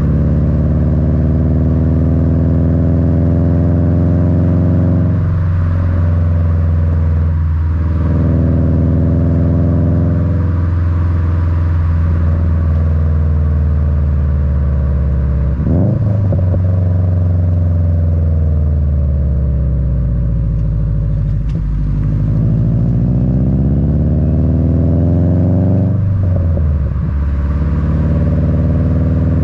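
Subaru WRX turbocharged 2.5-litre flat-four (EJ255) running through an Invidia N1 dual catback exhaust, recorded at the bumper close to the tailpipes: a low boxer rumble that climbs and falls in pitch as the car accelerates and eases off. Brief breaks and jumps in pitch about five, seven, sixteen and twenty-six seconds in are gear changes.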